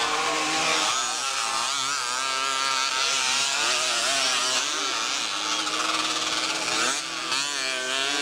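Several two-stroke motocross motorcycles racing, their engines revving up and down with overlapping, constantly shifting pitch.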